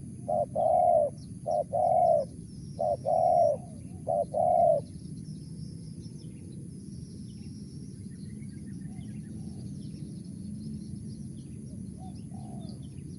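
Spotted dove cooing, a phrase of short and drawn-out coos that ends about five seconds in. Small birds chirp faintly after it.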